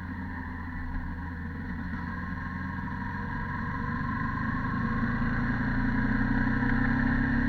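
Yamaha YZF-R15 V2.0's single-cylinder 150 cc engine running through its stock exhaust while riding, the note slowly rising in pitch and growing louder over the last few seconds as the revs build.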